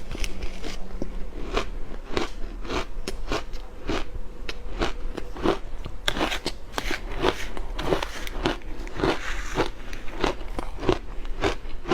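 Purple-coloured ice being bitten and chewed close to the microphone: a steady run of crisp crunches, about two or three a second.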